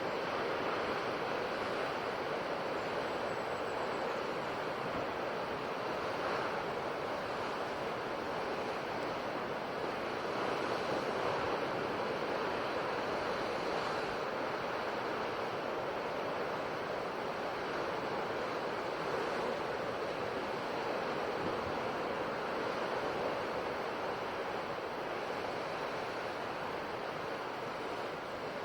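Ocean waves breaking on a shore, a steady wash of surf that swells and eases gently.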